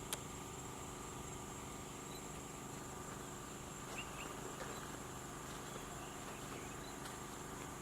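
Insects trilling steadily and faintly, a continuous high-pitched chirring.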